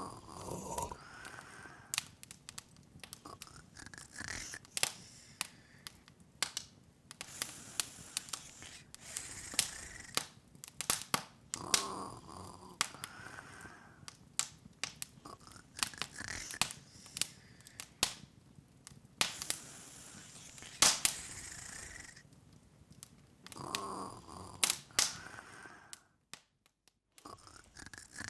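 Open wood fire crackling, with irregular sharp pops and snaps over a low hiss. A soft snore comes about every twelve seconds, and the sound cuts out for about a second near the end.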